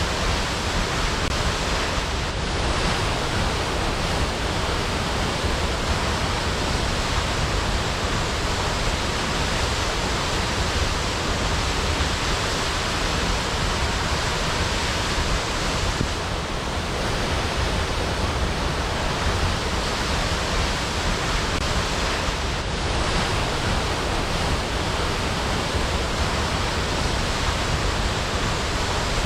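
Waterfall: a steady, dense rush of falling water, even across the whole range from deep rumble to hiss.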